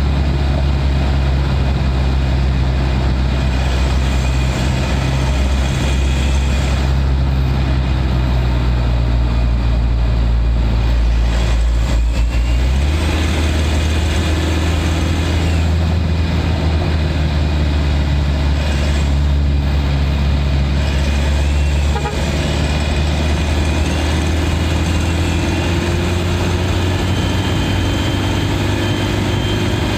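Mitsubishi Pajero Sport turbodiesel engine heard from inside the engine bay, running steadily under load at highway cruising speed. Its low note shifts about halfway through, and the engine pitch climbs slowly near the end as it gains speed.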